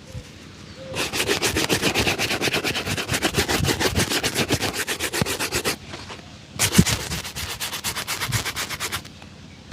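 A shoe being buffed to a shine with rapid back-and-forth rubbing strokes, several a second, in two runs with a short pause about six seconds in.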